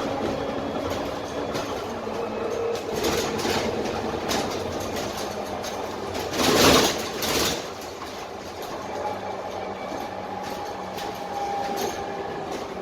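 Interior of a Dennis Trident double-decker bus under way: the Cummins ISMe diesel engine and Voith automatic gearbox hum with faint whining tones that rise and fall, over steady road noise and body rattles. Two loud rushing bursts come a little past halfway.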